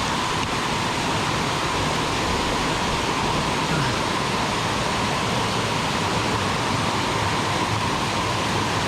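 Rushing water of a river or waterfall: a steady, even noise with no breaks.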